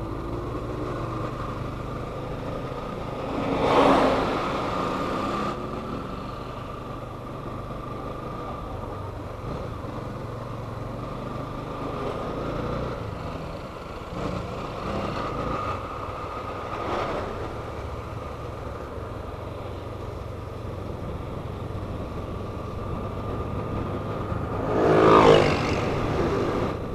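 Motorcycle running at steady road speed, with a thin steady whine over the engine and road noise. Two louder swells come about four seconds in and near the end.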